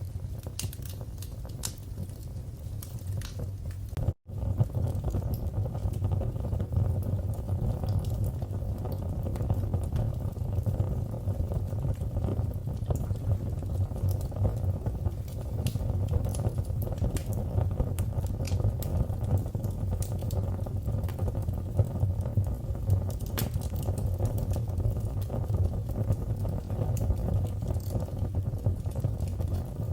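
Wood fire burning in a fireplace: a steady low rumble of the flames with scattered sharp crackles and pops. The sound cuts out for an instant about four seconds in, then carries on a little louder.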